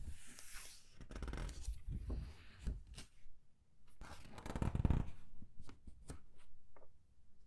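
Comic book pages being turned and squeezed by hand: paper rustling and crinkling in an uneven string of swishes and small crackles.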